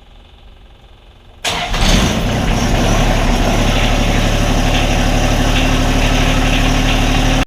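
A John Deere 1025R compact tractor's three-cylinder diesel engine starts about a second and a half in and settles into a loud, steady run.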